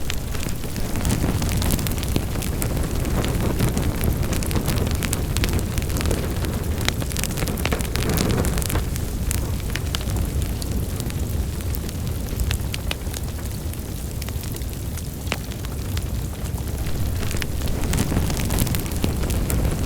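Wood fire burning in a fireplace: a steady low roar of flames with many sharp, irregular crackles and pops.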